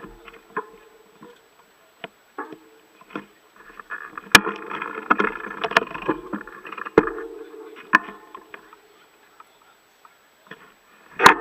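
Mountain bike clattering over rough ground: scattered sharp knocks and clicks, with a dense buzzing rattle for a few seconds in the middle and a cluster of loud knocks near the end.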